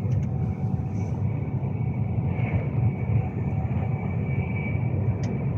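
Cabin noise inside a Class 390 Pendolino electric train running at speed: a steady low rumble with a faint high whine.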